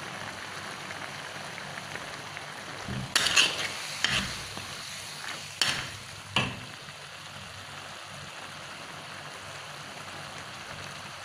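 Chili sambal with small clams and jengkol sizzling steadily in a pan, while a metal spatula scrapes and knocks against the pan a few times between about three and six and a half seconds in.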